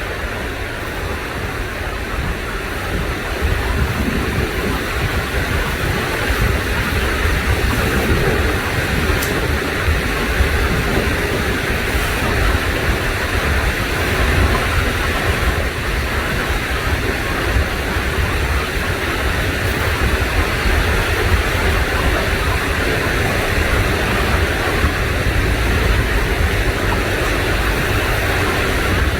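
Stream water rushing over rocks, a steady, even noise with a low rumble underneath.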